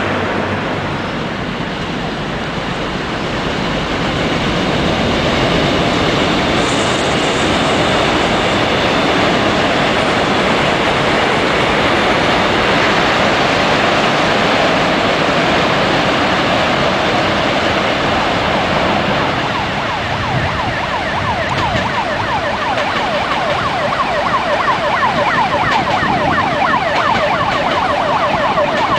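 Electric trains crossing a steel railway bridge: a loud, continuous rumble and clatter of wheels on rails. About twenty seconds in, a denser, higher rattle joins it as a train passes close by.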